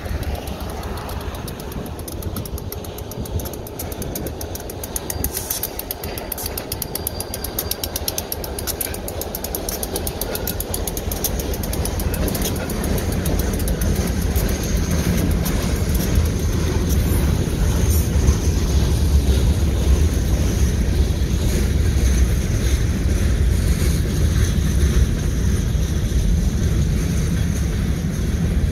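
Diesel freight locomotives passing close by with their engines running, followed by covered hopper cars rolling past. The low rumble of the train grows louder about halfway through.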